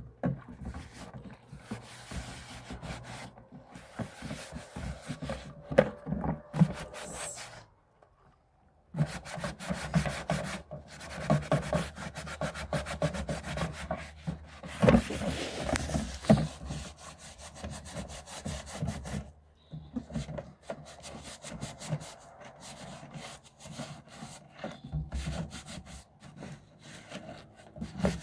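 Rapid, repeated rubbing and scraping strokes on a hard surface, with a few sharper knocks. The strokes stop for about a second roughly eight seconds in and briefly again later.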